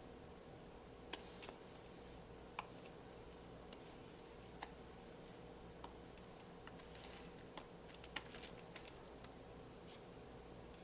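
Near silence: faint room tone with a steady low hum and scattered small clicks and ticks, which come more often about seven to nine seconds in.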